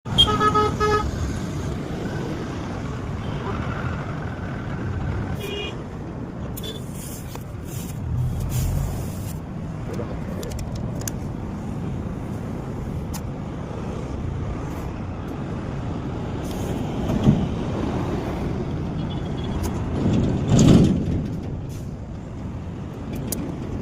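Steady vehicle and street noise, with a short pulsing, beeping tone in the first second and two louder swells in the last seven seconds.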